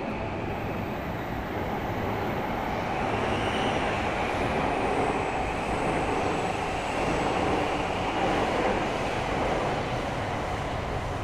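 A train running past, a steady rushing rumble that grows louder through the middle and eases off near the end.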